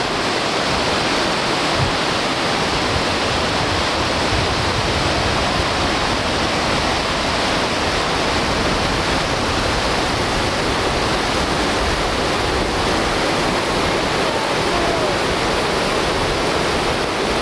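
River rapids rushing, a steady loud wash of whitewater with no break.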